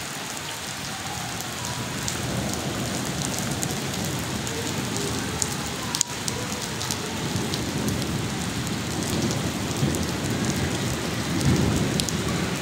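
Heavy monsoon rain pouring onto a flooded concrete courtyard: a steady hiss of drops splashing into the standing water.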